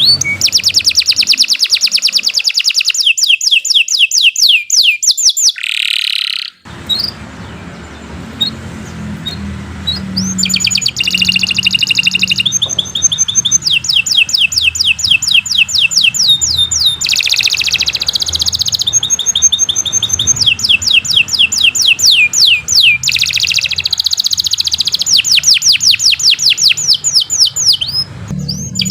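Domestic canary singing a long song of fast trills, each a rapid run of repeated falling notes. The song breaks off briefly about six seconds in, then resumes, over a low steady hum.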